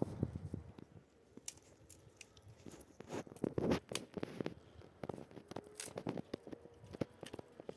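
Irregular crunching and rustling with sharp clicks, busiest about halfway through.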